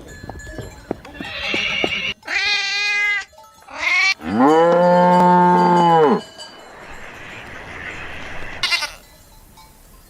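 Farm animals calling: two short wavering calls, then a long, steady low moo from a cow about four seconds in, with a brief call near the end. Knocks and clanks at the start, like a cowbell.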